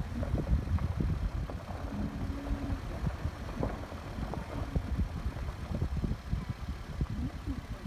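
Car engine and road rumble heard from inside the cabin, steady and low, with scattered light knocks and a brief low hum about two seconds in.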